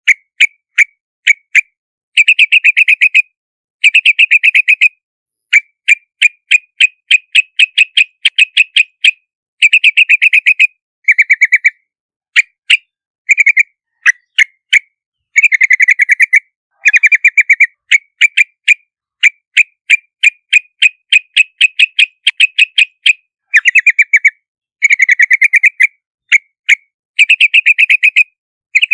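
Yellow-vented bulbuls calling: loud runs of short, quick chattering notes, bunched into fast clusters with single notes and brief pauses between them.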